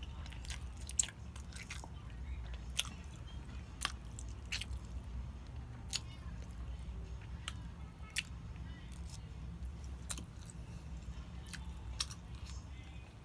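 Close-miked chewing and biting, with sharp wet mouth clicks and smacks coming irregularly, roughly one or two a second. A steady low hum runs underneath.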